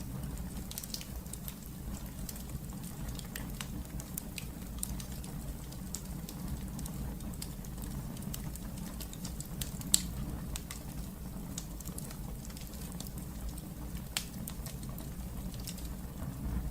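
Fire burning in a fireplace: a steady low rumble with scattered crackles and small pops, and a sharper pop about ten seconds in.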